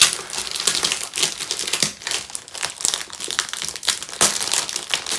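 Plastic crinkling and rustling in irregular bursts as a rolled diamond painting canvas with its plastic cover film is handled and unrolled.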